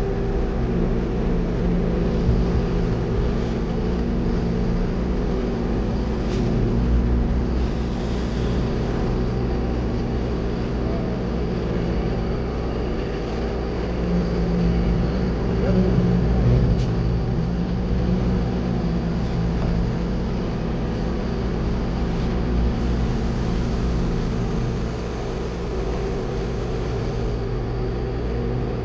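Concrete mixer truck's diesel engine running steadily, heard from inside the cab.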